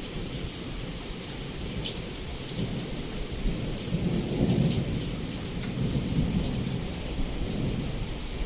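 Heavy rain falling steadily against a window, with a low roll of thunder that builds about two and a half seconds in, is loudest around the middle and dies away near the end.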